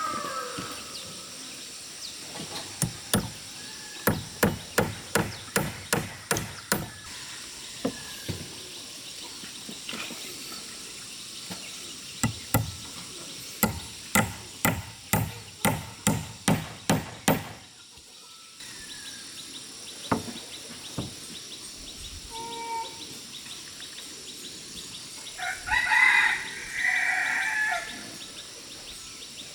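Two runs of steady blows of a tool striking wood, about two a second, with a farmyard rooster crowing near the end.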